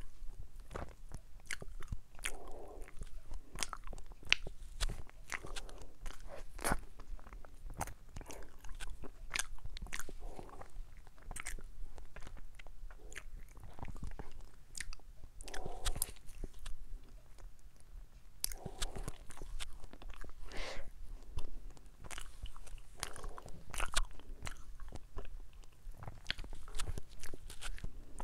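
Close-up eating sounds of a wafer ice cream sandwich: crisp crunches as the wafer shell is bitten, with many sharp crackles and wet chewing between bites.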